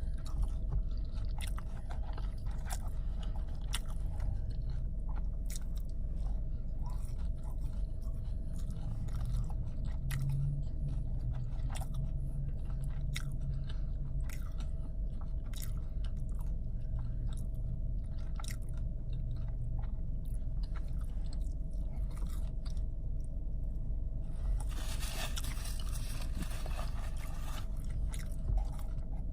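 Close-up chewing and biting with wet mouth clicks from someone eating, over a steady low hum. A louder stretch of hiss-like noise lasts about two seconds near the end.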